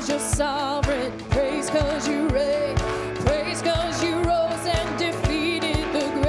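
Worship song with a singer's voice over a band and a steady drum beat about twice a second.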